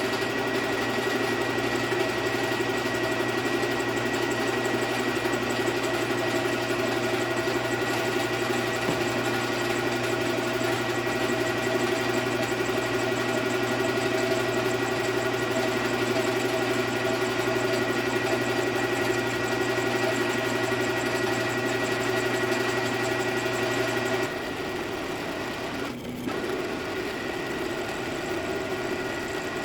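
Milling machine running steadily as it takes a light skim cut across the deck face of a Duramax cylinder head, resurfacing it to remove gouges left by faulty factory tooling. About four-fifths of the way through, the low hum drops out and the running goes a little quieter.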